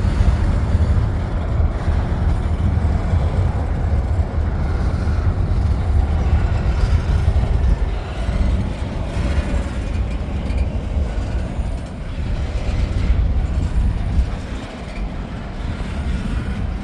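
Freight train rolling past slowly, a steady low rumble from the cars and wheels on the rails.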